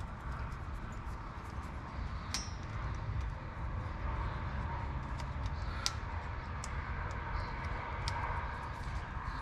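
Scattered light metallic clinks and taps from tools and hardware being handled, a few with a short ring, over a steady low rumble.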